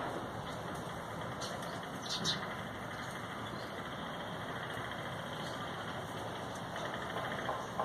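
Steady hum of distant traffic, with a few brief high bird chirps about two seconds in and a short run of repeated calls near the end.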